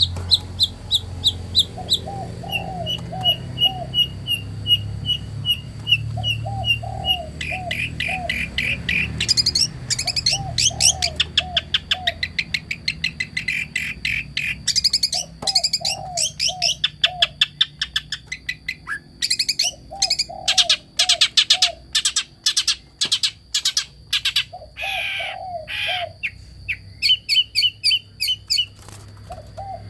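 Songbirds chirping and trilling in rapid series of high notes. A dove's low cooing phrase of a few notes repeats every four seconds or so.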